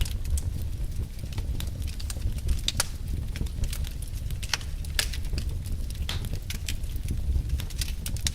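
Wood fire of burning logs crackling: irregular sharp pops and snaps scattered over a steady low rumble of the flames.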